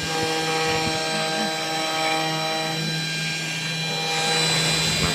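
3018 desktop CNC router running: a steady spindle hum with several whining tones from the axis motors that switch on and off as the machine moves.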